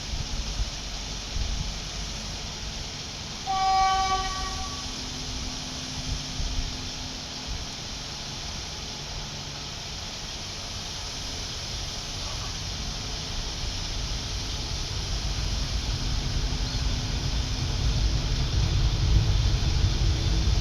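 Diesel passenger train approaching: one short horn toot about four seconds in, then the low rumble of the engine and wheels growing steadily louder over the second half.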